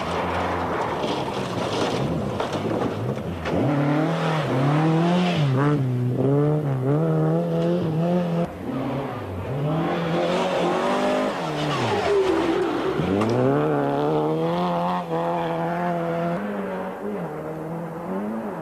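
Rally car engine revving hard at high revs. Its pitch repeatedly drops and climbs back, as it does with gear changes and throttle lifts.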